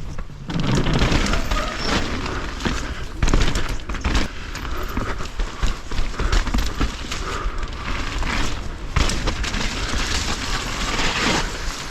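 Wind buffeting a helmet- or chest-mounted action camera's microphone as a mountain bike rolls over rough trail, with tyre noise and frequent short knocks and rattles from the bike.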